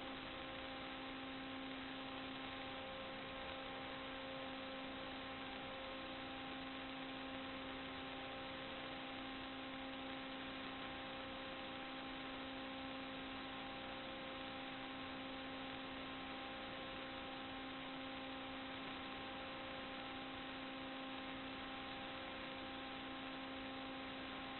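Steady electrical hum made of a few fixed tones over an even hiss.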